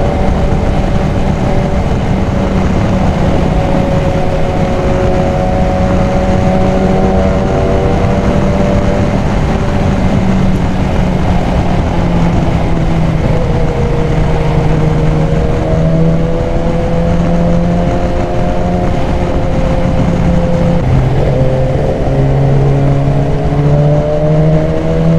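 BMW S1000XR's inline-four engine, breathing through a K&N high-flow air filter, running under way as the bike is ridden; its note rises and falls with the throttle, drops suddenly about 21 seconds in, then climbs again.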